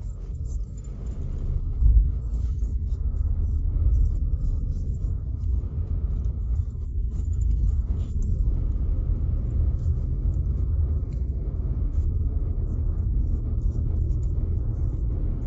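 Car driving on a wet road: a steady low rumble of engine and tyres, with scattered light ticks and a louder thump about two seconds in.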